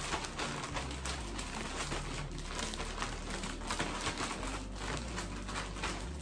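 Irregular crinkling and rustling as raw chicken pieces are coated in seasoned flour, likely handled in a plastic bag or container.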